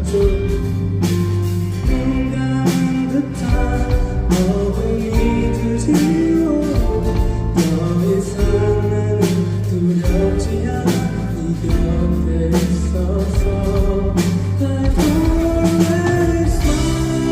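Live pop song played by a band with a steady drum beat, bass and guitar, with a singer's melody over it.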